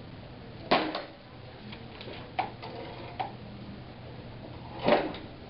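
Two sharp knocks about four seconds apart, with a few lighter clicks between them, over a steady low hum.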